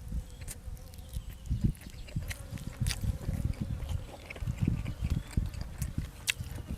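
Close-up eating sounds: a person chewing and slurping food, with wet mouth noises and a number of short sharp clicks.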